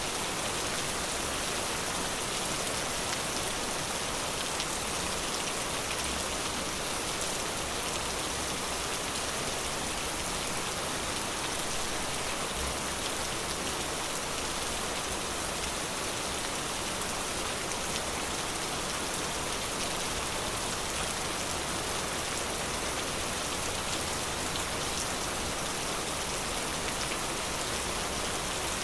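Steady rain falling on a forest and pattering on surfaces, an even hiss with scattered drop ticks.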